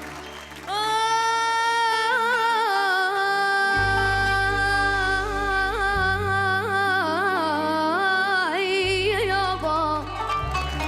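A solo singer holding a long sustained note that breaks into rapid, wavering ornamented runs in Arabic vocal style, over a sustained low instrumental accompaniment. The voice enters about a second in and stops shortly before the end.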